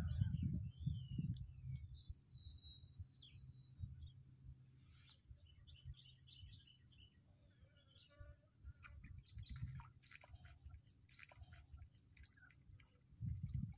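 Faint birdsong: a few whistled notes gliding up and down in the first few seconds, then scattered short chirps, over a steady thin high-pitched tone and a low rumble.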